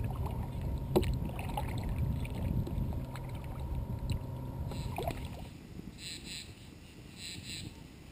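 Wind and water noise on a kayak on open water, with a few sharp clicks and knocks. About five seconds in, this gives way to a quieter background of high, rhythmic paired chirps, about one pair a second, typical of night insects or frogs.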